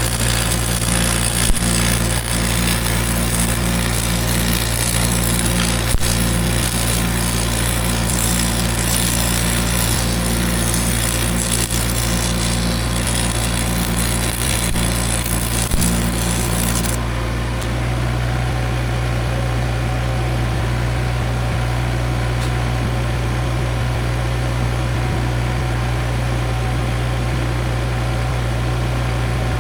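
An engine running steadily, with a high hiss over it that stops about 17 seconds in, where the engine's note also shifts slightly.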